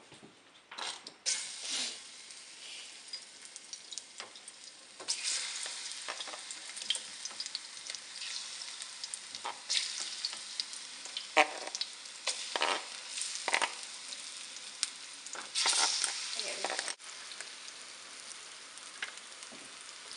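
Sliced plantains sizzling as they are slid into hot canola oil in a nonstick frying pan and frying, with a spatula scraping and stirring them in the pan. The sizzle starts about a second in and gets louder about five seconds in.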